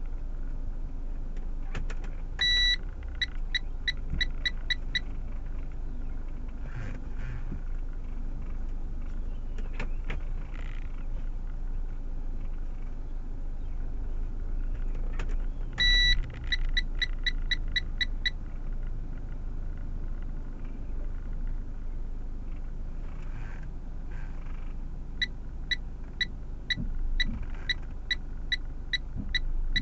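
Steady low rumble of a car heard from inside the cabin, with electronic warning beeps over it. Twice a long beep is followed by a quick run of about eight short beeps. Near the end a regular series of short beeps sets in, about two a second.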